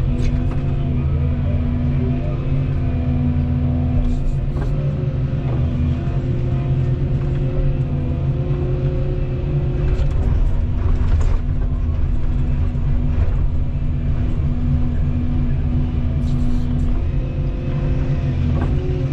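Volvo 235EL excavator's diesel engine running steadily at working speed, with a few short knocks.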